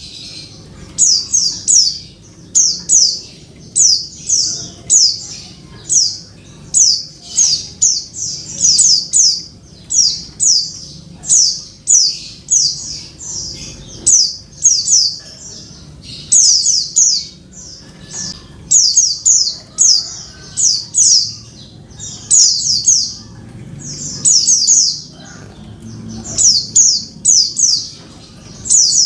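Female white-eye (pleci) calling to a male: short, high, sharply falling notes in quick groups of two to four, repeated about once a second.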